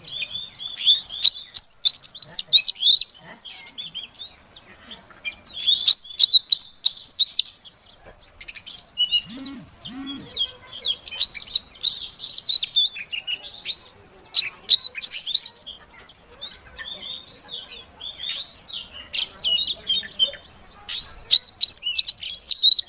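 Female Oriental magpie-robin (kacer) calling to males: quick, high chirps and twitters in repeated loud bursts of one to three seconds, with softer twittering in between.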